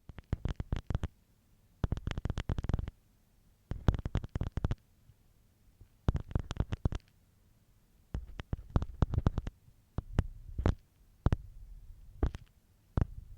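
Ear pick scraping and scratching close against a microphone's ear, in bursts of rapid crackling strokes of about a second each with short pauses between, a low rumble under each burst.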